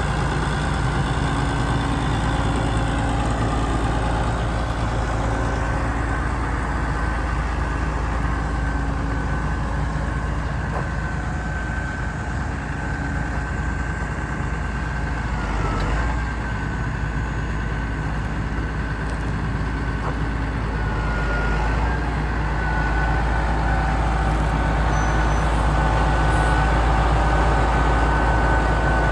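Challenger MT565B tractor's diesel engine running steadily at idle, with a thin high whine above it that dips briefly twice and gets a little louder near the end.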